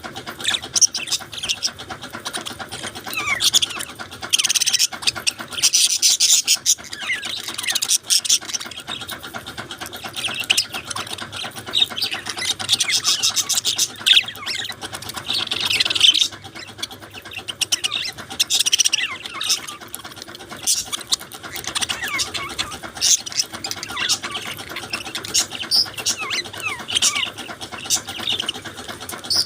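Budgerigars chirping and warbling together in continuous, busy, high-pitched chatter.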